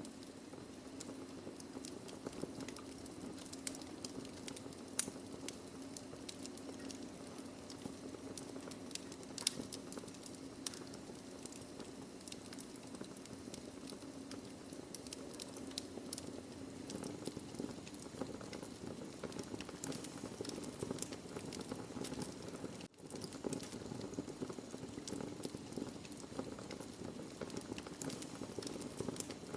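Burning wood logs in a fireplace crackling, with many irregular sharp pops over a steady hiss; the loudest pop comes about five seconds in, and the sound drops out for a split second about three quarters of the way through.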